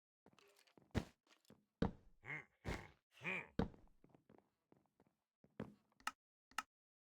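A faint, irregular series of knocks and thuds, with two short pitched sounds about two and three seconds in.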